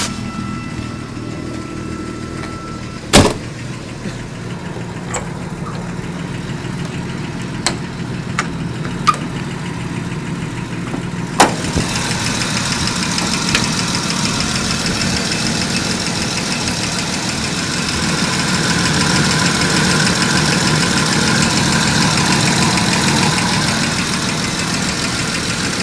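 1986 Jaguar XJ6's fuel-injected 4.2-litre DOHC inline-six (XK) engine idling steadily, an idle the owner calls nasty. It is louder from about twelve seconds in, with the bonnet open. A single loud thump comes about three seconds in, and a few light clicks follow over the next several seconds.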